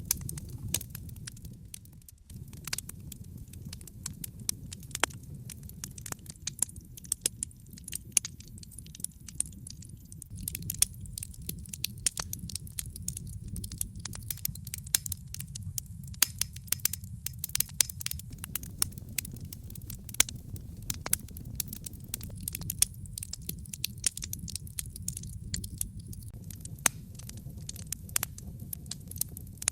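Fire crackling in a fireplace: many irregular sharp pops and snaps, several a second, over a steady low rumble of the flames.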